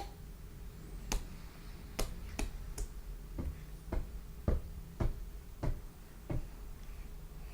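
A baby's mouth smacking and clicking while eating watermelon: about ten short, sharp smacks, roughly one or two a second, with a faint hum beneath.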